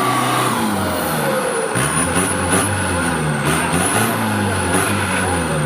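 Off-road 4x4 engine revving up and down repeatedly under load, with a thin high whine gliding above it.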